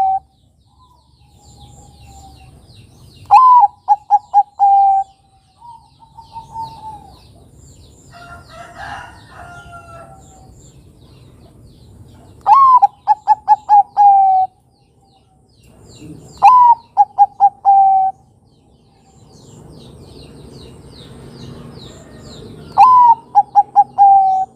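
Bangkok-strain zebra dove (perkutut) cooing in four phrases a few seconds apart. Each phrase is a rising opening note followed by a quick run of short clipped coos. Fainter high chirps of small birds sound between the phrases.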